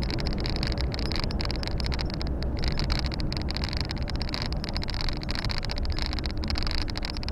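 Volvo FH 460 truck's 13-litre straight-six diesel engine running, with steady road noise, heard from inside the cab.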